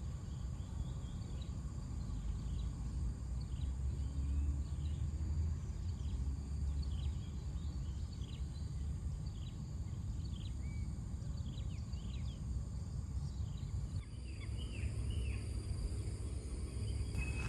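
Wild birds chirping, many short quick calls repeated throughout, over a steady low rumble.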